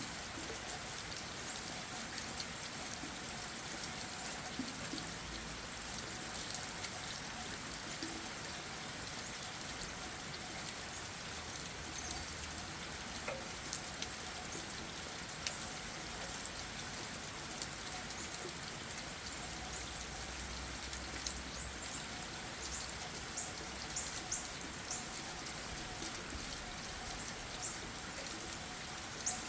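Steady rain falling on leaves and ground, with scattered sharper drip ticks that come more often in the second half.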